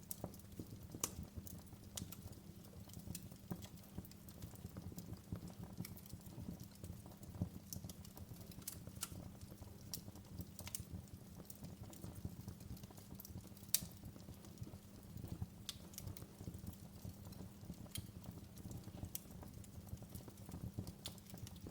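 Wood fire crackling in a fireplace: irregular sharp pops and snaps over a steady low rumble, with one louder pop a little past the middle.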